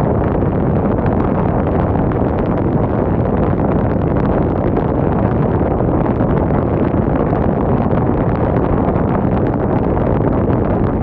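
Strong wind blowing steadily, rumbling on the microphone as a constant deep rushing noise.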